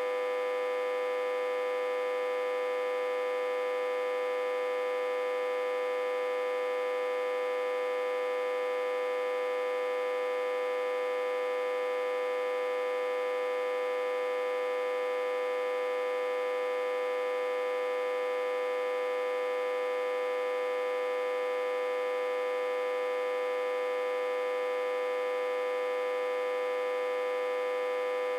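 Autotransformer humming steadily: one constant tone with many overtones above it. It is reverse-connected to a step-down transformer, with about 60–80 V on the input.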